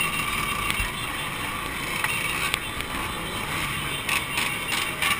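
Two-stroke motorcycle engines running steadily.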